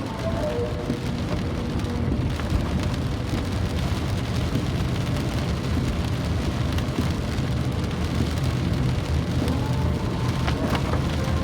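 Steady rain falling, an even, continuous patter with strong deep low-end noise.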